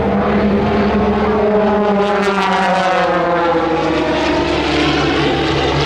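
Piston engines of a formation of propeller-driven aerobatic planes flying past, a steady drone whose pitch slides down from about two seconds in as they go by.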